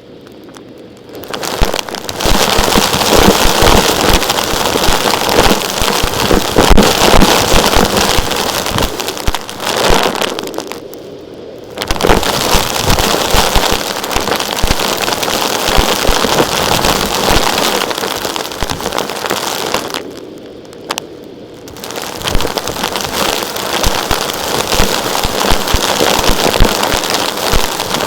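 Vacuum cleaner sucking up small rocks, a dense crackling rattle of stones hitting the nozzle and hose. It eases off briefly about ten seconds in and again about twenty seconds in.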